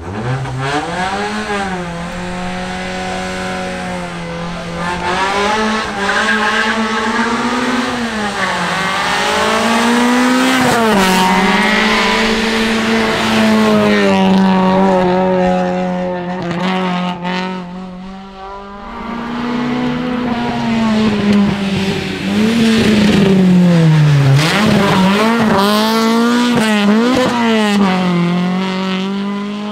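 Renault Clio R1 rally car's four-cylinder engine revving hard up the hill, its pitch climbing and then dropping again over and over as it changes gear, with a brief quieter lull just past the middle.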